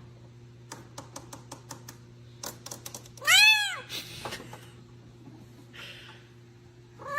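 A deaf cat meowing loudly: one long call that rises and falls about three seconds in, with a second meow starting at the very end. Before the first meow there is a run of light, quick clicks.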